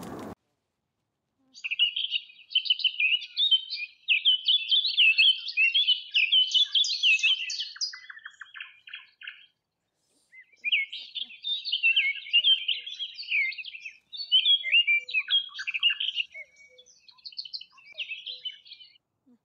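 A songbird singing a long, rapid, warbling song in two stretches of about eight seconds each, with a pause of about a second between them.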